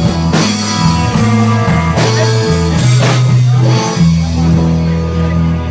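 Live rock band playing electric guitar, bass and drum kit, with cymbal crashes. About four seconds in, the band settles on one long held chord that rings on.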